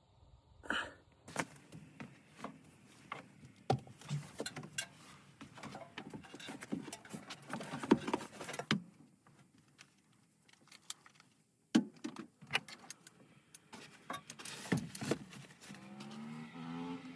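Irregular clicks, knocks and light rattles of hands and tools handling a gas furnace cabinet around its evaporator coil, with a short lull partway through. A low hum starts near the end.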